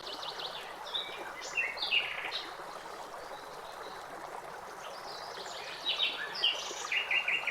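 Birds chirping in short high bursts over the steady rush of running water, likely a stream. The chirps come in two spells, one about a second in and one near the end.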